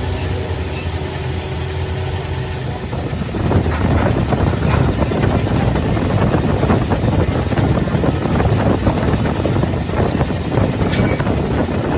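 Cylinder boring or honing machine running on an engine block: a steady low motor hum, joined about three and a half seconds in by a louder rough grinding chatter as the tool works the cylinder.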